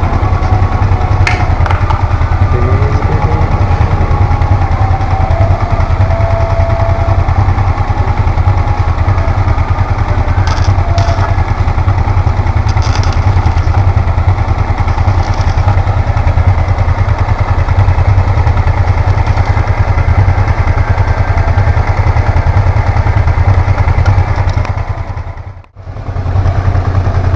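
Honda Transalp 650's V-twin engine idling steadily, a continuous low rumble. It is kept running while brackets are arc-welded onto its crash bars, so the welding current won't damage the bike's electronics. The sound drops out briefly near the end.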